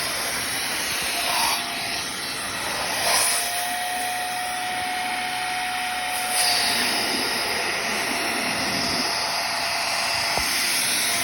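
Hoover Clean Slate XL portable carpet and upholstery cleaner's suction motor running steadily as its nozzle pulls cleaning solution back out of a car seat. It surges briefly a few times as the nozzle is worked, with a thin steady whistle from about three to six and a half seconds in.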